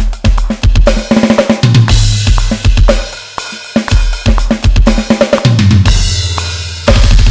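Roland TD-50X electronic drum kit being played, heard direct from the module's line output. There are fast kick, snare and hi-hat patterns and fills, with two cymbal crashes over a long low boom in the middle and toward the end.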